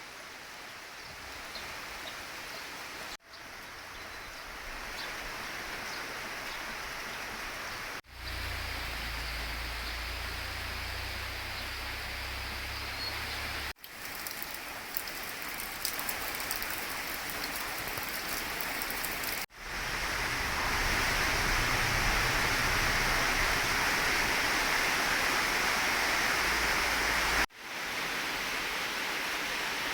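Steady rain falling, a continuous hiss made of several spliced recordings that cut off and restart sharply every few seconds. It is heaviest and loudest in the last third.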